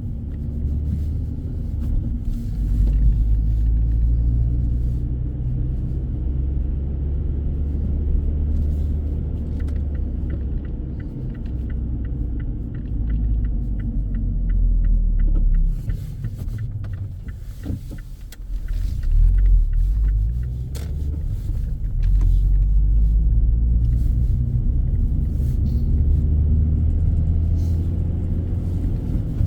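Low road and engine rumble inside a moving car's cabin, easing briefly a little past halfway before building again. A short run of faint rapid ticks sounds about ten seconds in.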